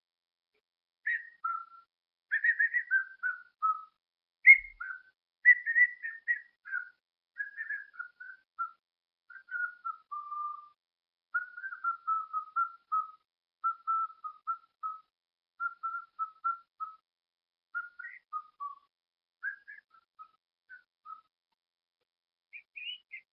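Whistling: a long run of short, clear whistled notes, some held and some falling in pitch, higher at first and settling into a lower, repeated phrase.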